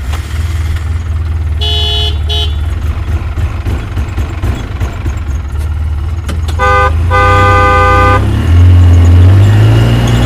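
A truck engine rumbling steadily, with horn honks twice: a short double toot about two seconds in and a longer double honk about seven seconds in. Near the end the engine's pitch rises as it revs.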